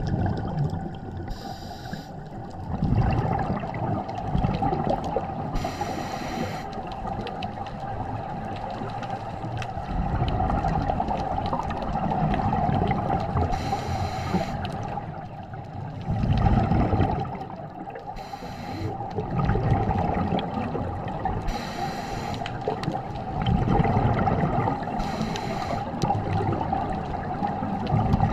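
Scuba diver breathing through a regulator underwater: a short hiss on each inhale, every few seconds, and gurgling rushes of exhaled bubbles between them, over a steady underwater wash.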